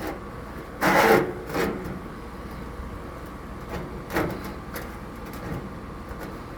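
Cloth rubbing and wiping out a grill's grease pan, with a few short scrapes and knocks of handling, the loudest about a second in.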